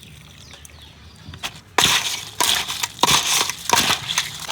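Cooked crab shell being cracked and crunched: after almost two seconds of quiet, a run of loud, sharp cracks and crackling crunches, roughly two a second.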